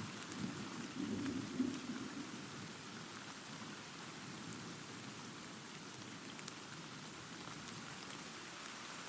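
Steady rain hissing, with a low rumble of thunder that swells in the first couple of seconds and then fades under the rain.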